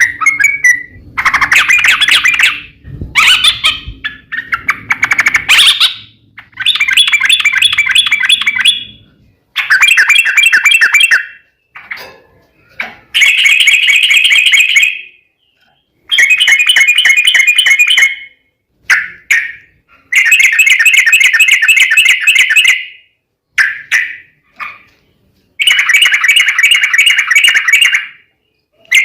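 Yellow-vented bulbul (trucukan) singing loud, bubbly, rapid chattering phrases of one to three seconds each, repeated about a dozen times with short gaps between them.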